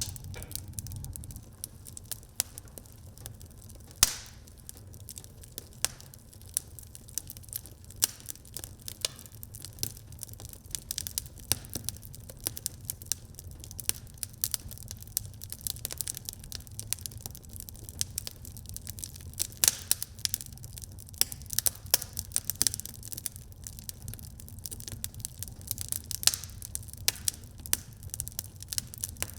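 Wood fire burning in a fireplace, crackling with a constant stream of small irregular pops over a low steady rumble, with a few louder snaps, one about four seconds in.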